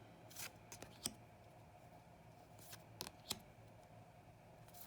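Faint, short papery ticks and swishes of oracle cards being handled and flipped one at a time, about half a dozen in the first few seconds.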